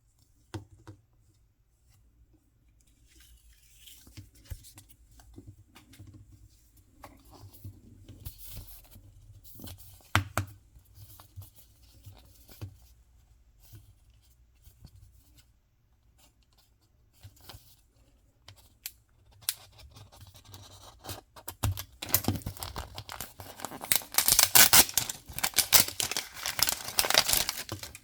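Toy packaging being handled and torn open: scattered small clicks and rustles, then a loud stretch of ripping and crinkling for the last several seconds.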